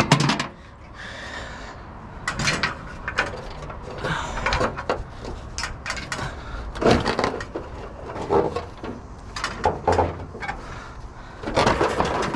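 Scrap being handled: irregular knocks, scrapes and clatters every second or so, with a louder run of clattering near the end.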